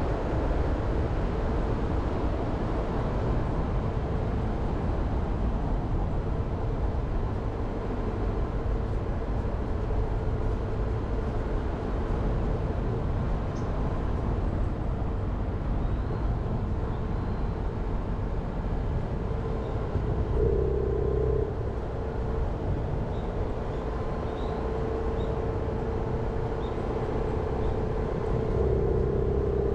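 Jeep Renegade driving along a forest road: steady engine and tyre noise with a constant droning hum that swells briefly about two-thirds of the way through and again near the end.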